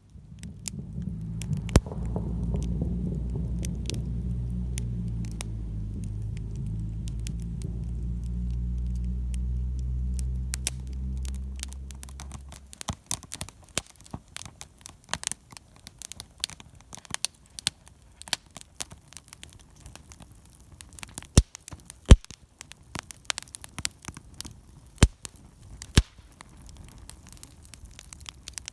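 Wood fire crackling and popping with irregular sharp snaps, a few of them loud. A low steady hum runs underneath for about the first half and cuts off suddenly.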